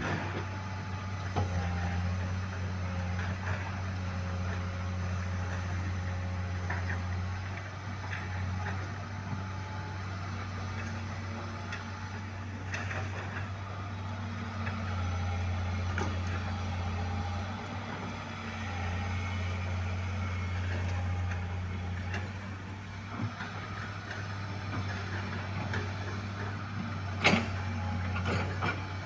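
A heavy diesel engine running steadily with a low, even hum, and a few sharp knocks near the end.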